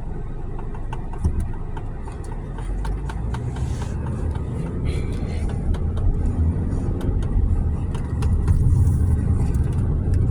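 A car driving, heard from inside the cabin: a steady low rumble of engine and road noise, with scattered light clicks and knocks.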